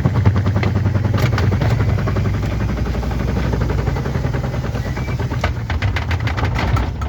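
Washing machine running loudly: a steady low hum with a fast, continuous rattling clatter, cutting off abruptly near the end.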